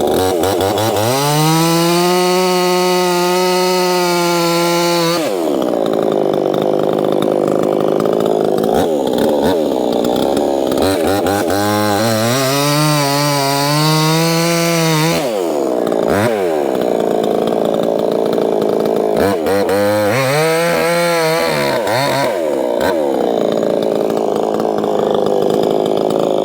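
Proyama 68cc two-stroke chainsaw running hard while cutting firewood. Its engine note swells and falls away three times as the load changes through the cuts.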